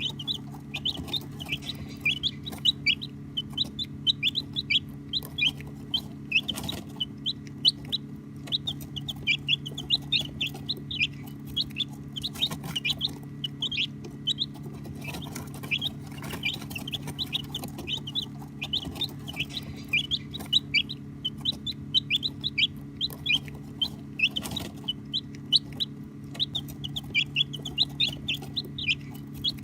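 A brood of baby chicks peeping without a break: a dense stream of short, high chirps, each falling in pitch. A steady low hum runs underneath, and there are a few brief knocks.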